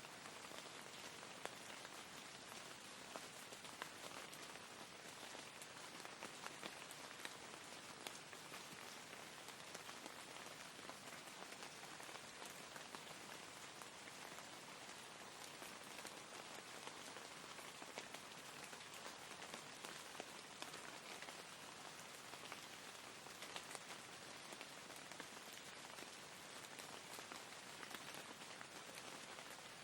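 Soft, steady rain falling, an even patter with scattered sharper drop ticks.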